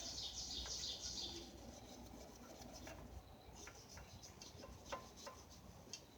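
A bird's rapid chirping trill in the first second or so, followed by scattered faint clicks and light scrapes.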